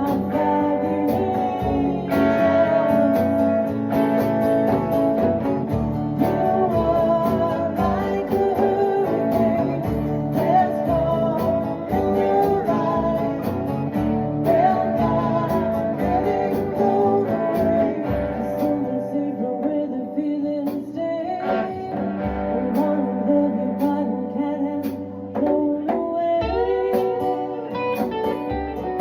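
Guitar-led music: an instrumental passage with long held notes that bend in pitch over a steady accompaniment.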